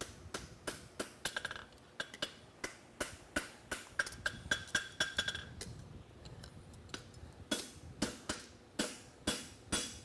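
Farrier's hammer striking a steel horseshoe on an anvil, steady ringing blows about three a second, as the shoe's branch is turned and shaped.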